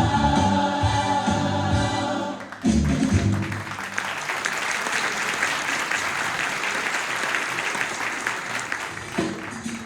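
A choir with accompaniment holds a final chord that stops about two and a half seconds in, then an audience applauds, the clapping thinning out near the end as instruments start up.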